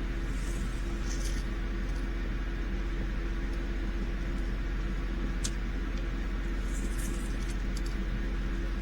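A steady low electrical hum with a faint background hiss, and a few faint light clicks and rustles of loose resin diamond-painting drills being raked off a canvas into a tray. The sharpest click comes about five and a half seconds in.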